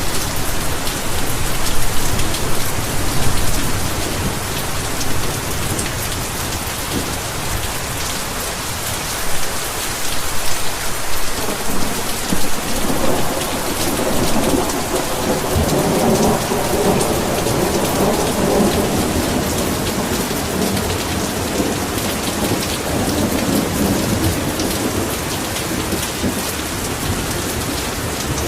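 Heavy rain falling steadily, with a low roll of thunder rumbling through the middle.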